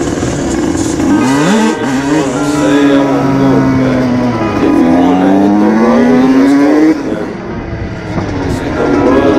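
Several motorcycle engines revving over one another, their pitch rising and falling in long sweeps. The sound drops off sharply about seven seconds in, then picks up again near the end.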